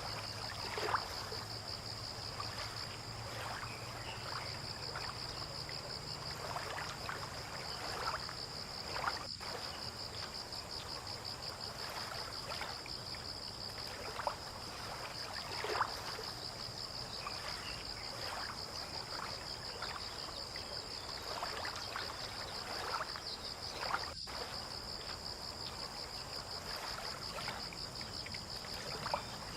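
Harbour water lapping and splashing softly against boats and the quay every few seconds, under a steady, high, pulsing insect trill. A faint low hum fades out about eight seconds in.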